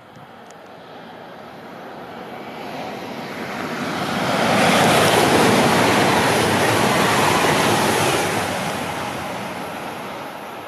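ICE high-speed train passing at speed on an electrified main line. The rushing noise of wheels on rail and air builds as it approaches, is loudest for a few seconds about halfway through as the coaches go by, then fades as it recedes.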